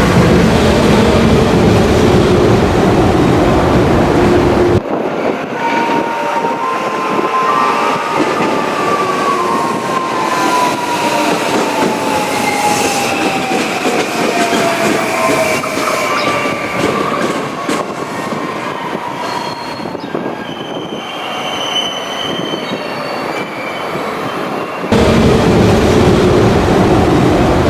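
Two-car 521-series electric train running into the station: heavy running rumble and wheel noise, with a motor whine that falls slowly in pitch as it brakes. The rumble drops out abruptly about five seconds in and comes back just as suddenly a few seconds before the end.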